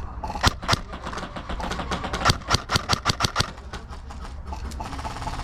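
Airsoft guns firing single sharp pops, irregular at first and then a quick string of shots around the middle.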